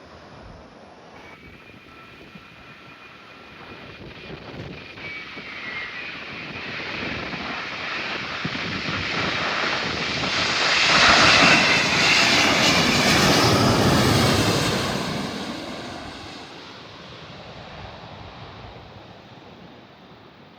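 Jet airliner passing by: its engine noise, with a thin whine at first, grows to a loud peak about halfway through and then fades away.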